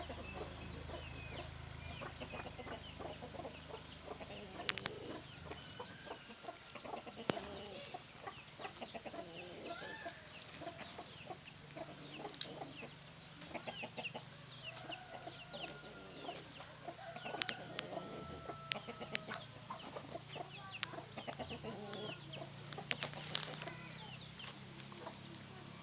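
Chickens clucking, with many short high chirps and a few sharp clicks scattered through.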